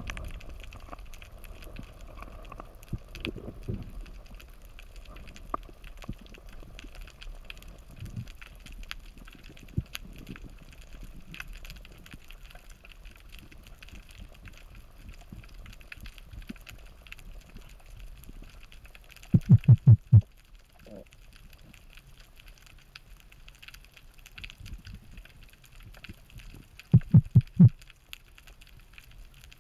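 Underwater ambience heard through a camera housing on a freedive: a steady faint crackle of small clicks. Twice, about two-thirds of the way in and again near the end, there is a quick run of four or five low thumps.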